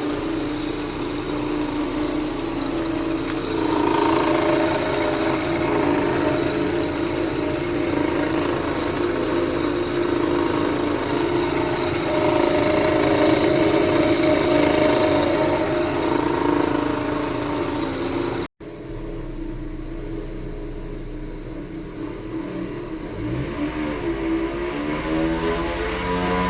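Toyota Camry V6 engine running with a steady whine, a noise the owner puts down to a bad timing belt tensioner. After a sudden cut about two-thirds through, the engine is heard again more quietly and is revved, its pitch rising and falling near the end.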